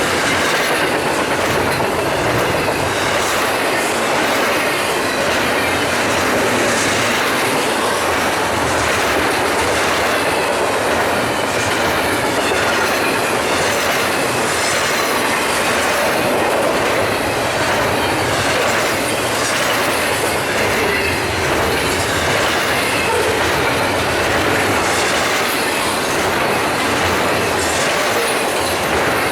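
Double-stack intermodal freight cars of a BNSF train rolling steadily past on the rails: a continuous, loud rumble and clatter of steel wheels on track.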